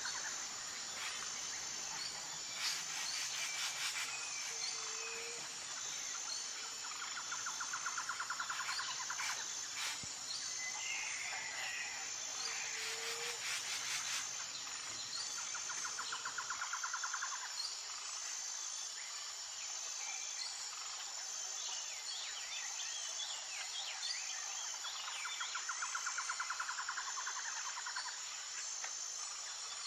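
Outdoor nature ambience: insects chirring in a steady, high-pitched pulse, with a lower trill that recurs every several seconds and a few short bird chirps.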